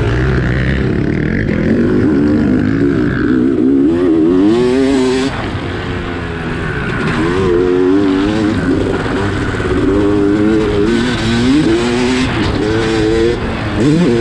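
Dirt bike engine revving up and falling back again and again as the bike is ridden around a motocross track, with steady wind noise over it.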